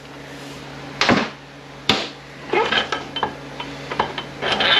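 Metal parts of an Aisin-Warner A340F automatic transmission clanking as they are handled during teardown: two sharp knocks about one and two seconds in, then a run of lighter metallic clinks.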